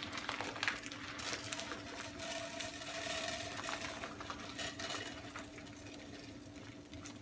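Loose wild bird seed rattling and clicking as it is poured and handled in a bird feeder, a run of small irregular ticks over a steady low hum.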